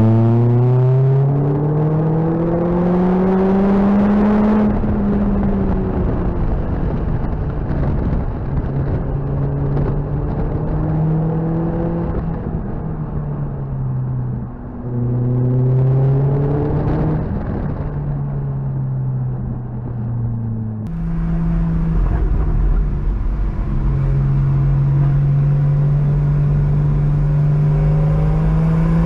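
Lotus Elise 220's supercharged four-cylinder engine heard from the open cockpit, revving up in pulls with its pitch rising and dropping back at gear changes, over wind and road noise. About two-thirds of the way through, it switches abruptly to another car's engine at a steady cruise with a deeper rumble, its pitch rising again near the end.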